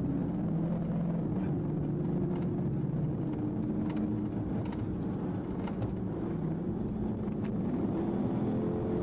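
Steady engine drone of a vehicle under way, its pitch drifting slightly, with a few faint ticks.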